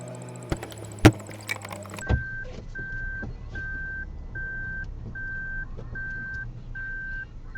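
A few sharp thumps, the loudest about a second in, then a car's electronic warning beeper sounding a steady single-pitch beep over and over, about one beep every 0.8 s.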